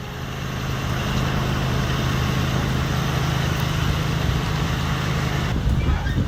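Steady low rumble and road noise of a moving vehicle, which changes abruptly about five and a half seconds in.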